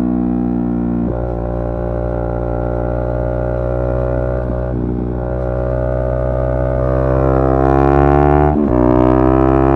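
Yamaha R3's parallel-twin engine pulling steadily under way, its pitch slowly climbing, with brief breaks at gear changes about a second in, around five seconds and near the end.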